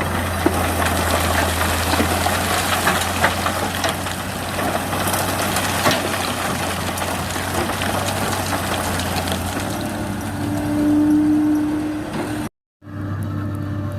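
Heavy diesel earthmoving machinery running with a steady low hum, under a grainy scraping and clattering that fits sand and stones being scooped and dumped. From about ten seconds in a steady higher whine rises and swells, then the sound cuts off abruptly and an engine hum resumes.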